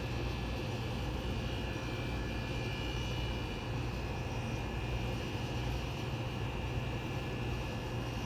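Vintage Amana high-efficiency window air conditioner running on low cool: a steady low rumble from its Matsushita compressor under the rush of the fan, with a faint high whine.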